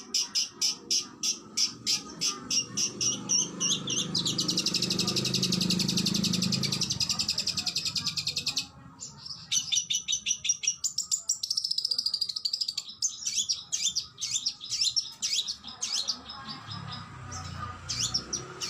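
Oriental magpie-robin (kacer) singing: a run of sharp repeated whistled notes, about five a second, goes into a very fast buzzing trill of about four seconds that cuts off suddenly. After a brief pause it resumes with a varied series of whistles and chips.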